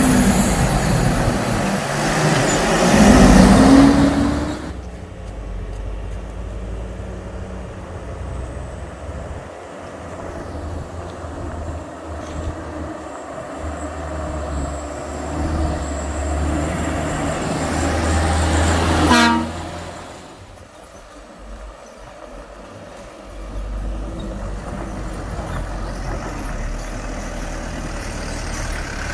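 Heavy trucks' diesel engines running in traffic on a climb, with a loud vehicle passing close in the first few seconds. A brief horn toot about two-thirds of the way through.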